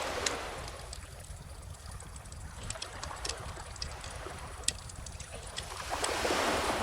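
Calm ocean waves washing in, one swell at the start and a second near the end, over a wood fire crackling with scattered sharp pops. The loudest pop comes about two-thirds of the way through.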